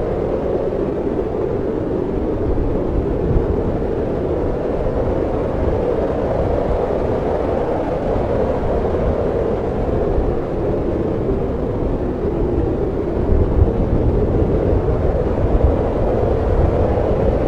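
Storm wind blowing steadily, a continuous rushing noise over a low rumble, gusting a little louder toward the end.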